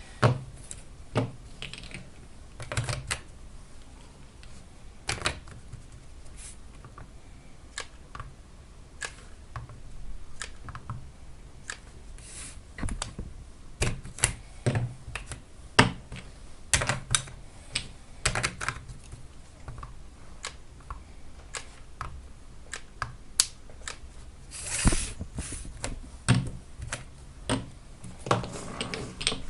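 Irregular clicks and light knocks of lithium-ion battery cells being handled and set against each other on a workbench while they are glued into groups for a pack. Now and then a louder tap or thud.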